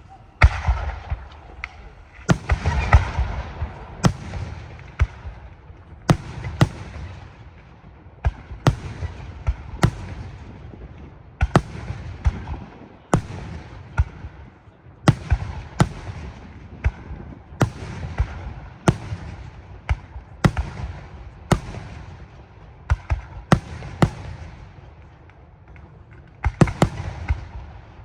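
Aerial firework shells bursting one after another in a display, a sharp bang roughly every second, with a denser run of bursts a few seconds in; each bang trails off before the next.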